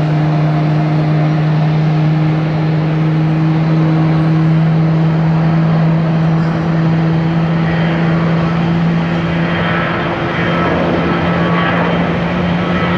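Jet engines of an Airbus neo airliner running: a steady low hum, joined about eight seconds in by louder rushing noise and high whining tones as the engines build thrust.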